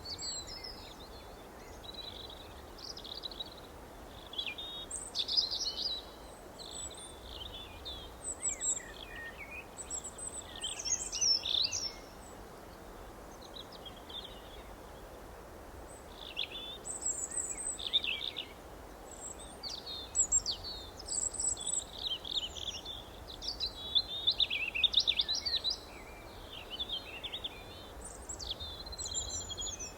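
Several songbirds chirping and trilling in short, overlapping phrases, coming in clusters with brief lulls, over a faint steady background hiss.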